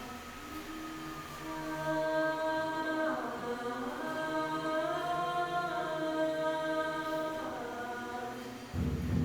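Voices singing held, chant-like notes together, the pitch sliding to a new note every second or two. A sudden low rumble comes in near the end.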